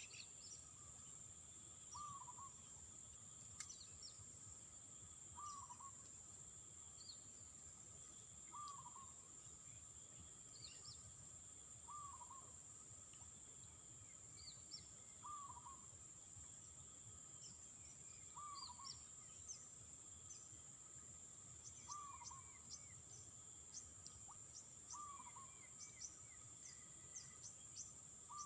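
Faint outdoor nature sound. A bird repeats one short call about every three seconds over a steady high-pitched insect drone, with scattered small chirps.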